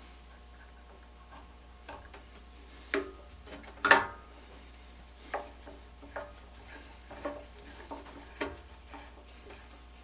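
Irregular light clicks and knocks of hand tools and small parts being worked on the blower's power-cord wiring, the loudest about four seconds in.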